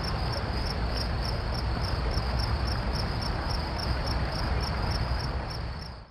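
Crickets chirping in an even rhythm, about four pulses a second, over a steady low rumbling background noise; the sound fades out at the very end.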